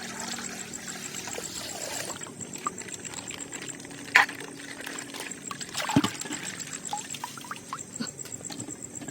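Coloured water pouring and trickling out of a punctured plastic ice bag, with plastic crinkling and a couple of sharp clicks about four and six seconds in.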